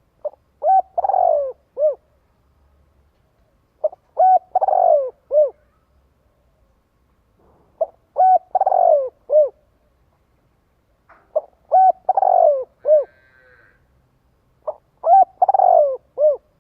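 Spotted dove (cu gáy) singing its cooing song: five phrases spaced a few seconds apart, each a few short coos around a longer, falling rolling coo. It is a decoy dove's song, used to stir up and call in wild doves.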